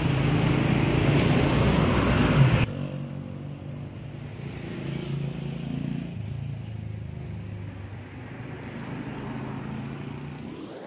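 Motorcycle engines and street traffic running close by. The sound is loud for the first few seconds, then cuts suddenly to a quieter, steady engine hum.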